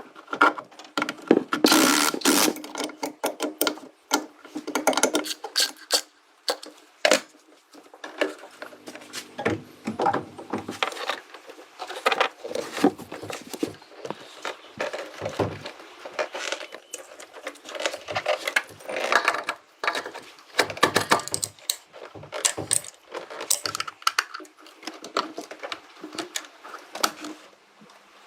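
Irregular clicking, knocking and scraping of hand work with tools and parts, with no steady machine running.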